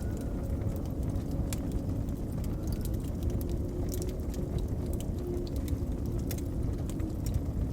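Wood fire crackling with frequent sharp pops and snaps over the steady low rumble of blizzard wind, which carries a faint whistling tone at times.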